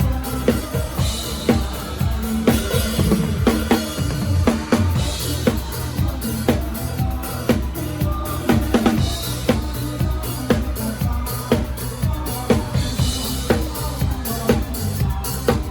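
A drum kit played live with a band, the kick and snare hits loud and close over bass and other instruments, keeping a steady beat.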